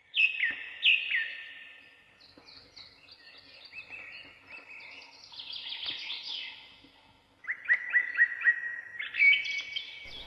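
Small songbirds singing and chirping: a pair of falling whistled notes at the start, scattered chirps, then a quick run of repeated notes a little past halfway and a trill near the end.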